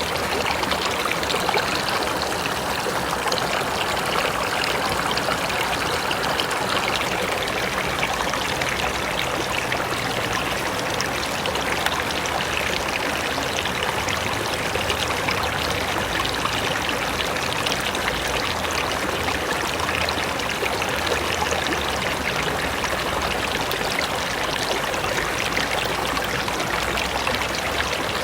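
Mountain river flowing over rocks in a steady, even rush, with small splashes and trickles throughout.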